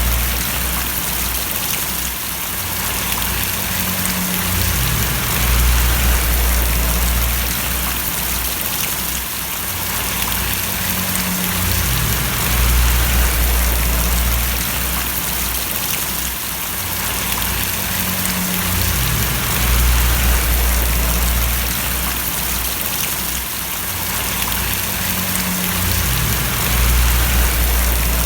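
Steady rain falling and splashing, with a low rumble underneath that swells and fades every several seconds.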